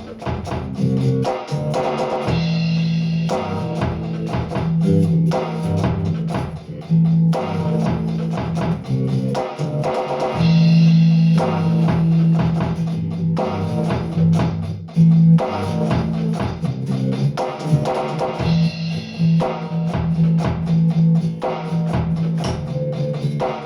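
Squier Precision Bass electric bass playing a jam over a drum kit, with the same phrase coming round about every eight seconds.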